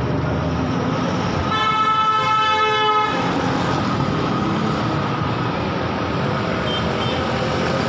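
A vehicle horn sounds once, a steady tone held for about a second and a half, over continuous vehicle engine and road noise.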